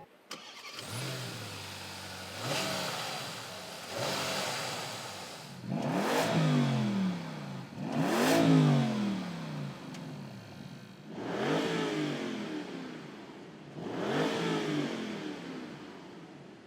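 Porsche Panamera GTS V8 starting up, then revved in about six short blips from idle, each rising and falling back; the revs about halfway through are the highest.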